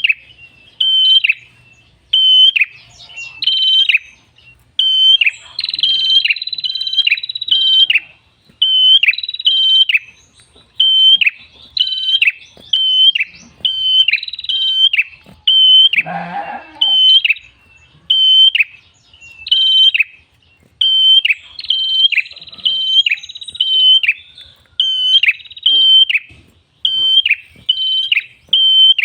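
Red-headed prenjak (tailorbird) calling loudly: sharp, ringing chirps repeated one to two a second in quick runs, mixed with a few longer, higher buzzing trills. A brief noisy sound breaks in about sixteen seconds in.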